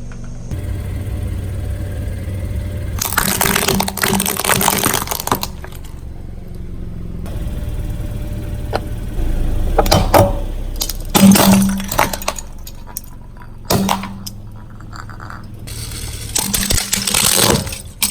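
A car's tyre rolling slowly over objects and crushing them: several spells of crackling and crunching over the low hum of the car's engine.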